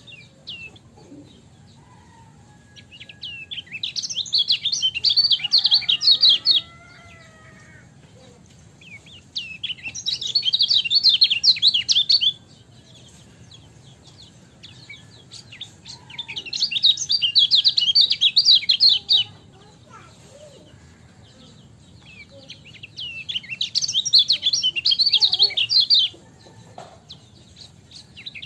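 Kecial kuning, a white-eye, singing a fast, high twittering chatter in four bursts of about three seconds each, one every six or seven seconds.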